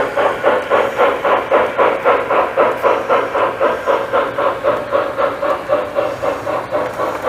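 Lionel model steam locomotive's sound system chuffing steadily, about four chuffs a second.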